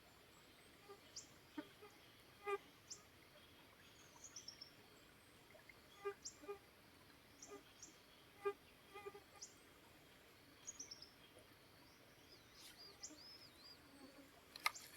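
Birds chirping: short, high, downward-slurred notes scattered about once a second, coming thicker near the end, over the faint steady hiss of a flowing stream.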